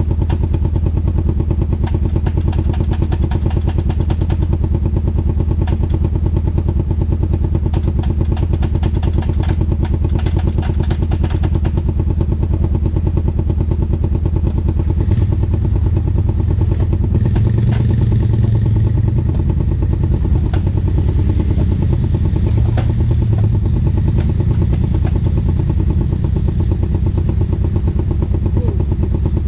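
Off-road vehicle engine running continuously with a steady, rapid pulse; it gets heavier and less even from about halfway through.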